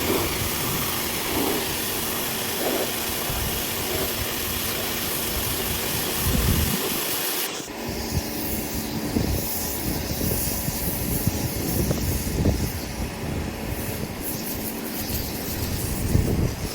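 Pressure washer spraying water onto a car's paintwork, a steady loud hiss. About eight seconds in the hiss abruptly becomes duller and quieter in its upper part, with irregular low knocks.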